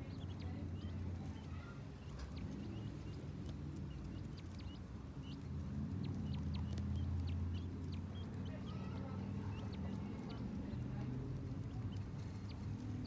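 King quail chicks peeping: many short, high cheeps scattered throughout, over a steady low hum.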